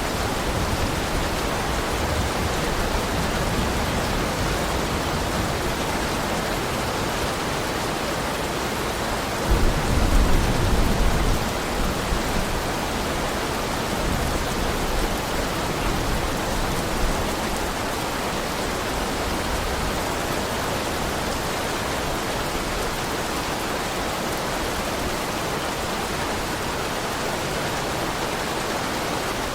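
Heavy rain falling steadily, with a short low rumble of thunder about ten seconds in.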